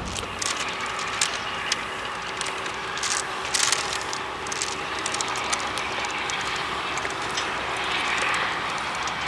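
Train running on the rails, a steady rumble with a faint steady hum and frequent sharp clicks and rattles.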